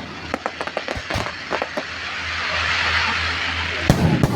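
Fireworks going off: a quick run of sharp crackling pops, then a dense crackling hiss that swells for a couple of seconds, and two loud bangs near the end.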